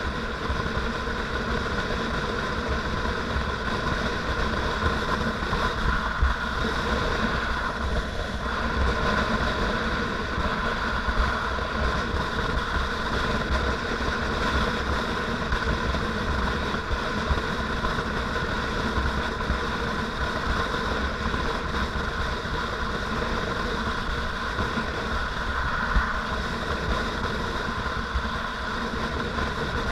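Motorcycle running steadily while being ridden, a constant engine drone with no change in pace.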